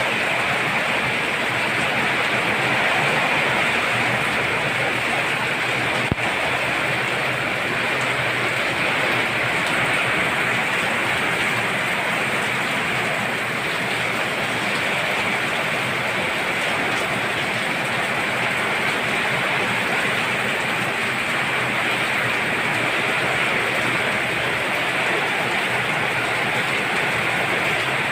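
Heavy rain falling in a steady, even downpour, with one sharp tick about six seconds in.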